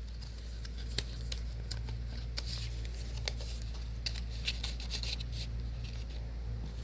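Paper being handled and folded by hand: scattered soft rustles and small clicks of paper, over a steady low hum.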